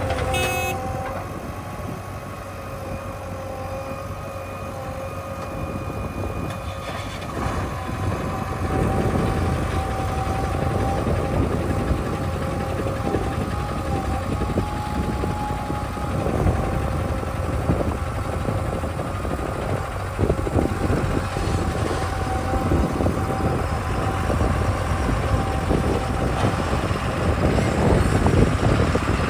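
Heavy diesel vehicle on the move, engine running with a steady low rumble and a steady whine. The rumble grows louder about seven seconds in, and the whine fades near the end.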